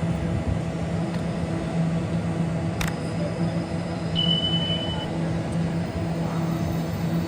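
Steady hum of a train at a station platform, with a sharp click about three seconds in and a short high beep a little after four seconds.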